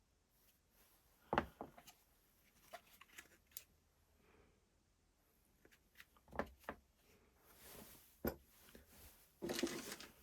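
A few separate knocks and clicks of hard parts being handled, seconds apart, then a short rattling cluster of handling noise near the end.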